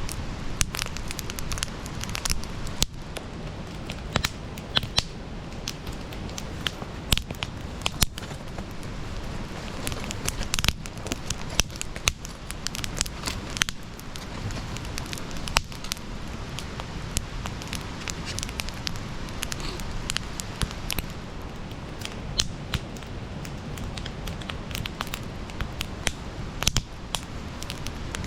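Wood campfire burning, with frequent irregular crackles and pops over a steady low rumble of flame.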